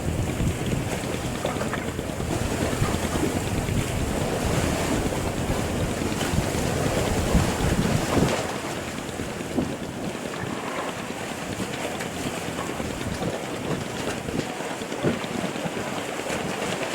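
Wind buffeting the microphone over sea water washing around a boat; the low rumble of the wind eases about halfway through.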